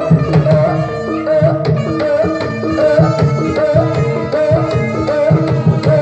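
Jaranan (kuda lumping) accompaniment music: hand drums beating a busy rhythm under a melody line that repeats the same short rising figure over and over.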